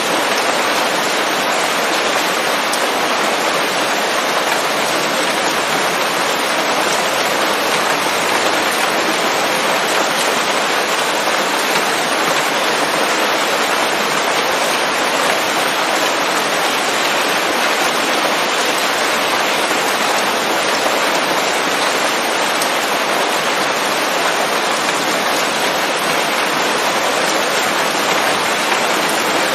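Steady heavy rain falling on leaves, a dense even patter of many drops.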